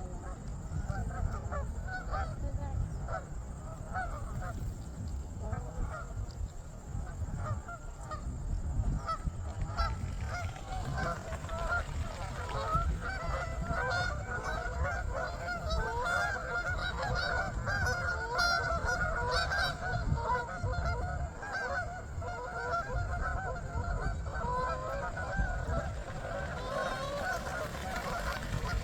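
A flock of Canada geese honking, with many overlapping calls that become busier and louder about halfway through.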